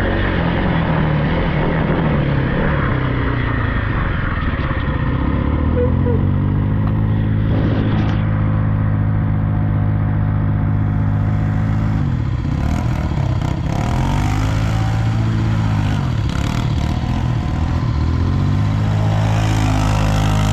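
Off-road vehicle engine running close by, holding a steady pitch at first, then revving down and up again several times in the second half.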